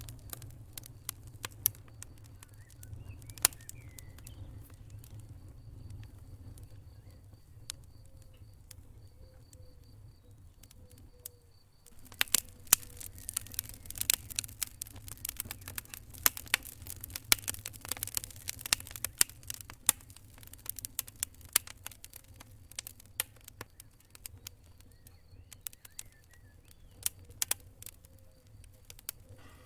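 Wood fire crackling in a fireplace: irregular sharp pops and snaps over a low steady rumble. About twelve seconds in the sound changes suddenly and the crackling becomes denser and louder.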